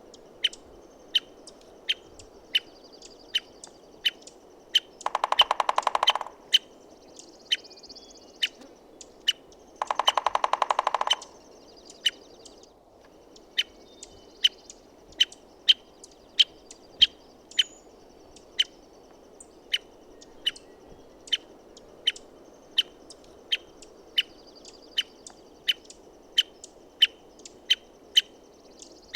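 American three-toed woodpecker calling with a run of short, sharp, falling notes, about one and a half a second. Two bursts of rapid drumming, each about a second long and louder than the calls, come about five and ten seconds in. A steady low background hiss lies under it all.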